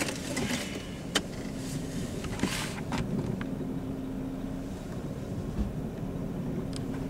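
Car engine running steadily, heard from inside the cabin as a low hum with a faint steady tone, with a few light clicks.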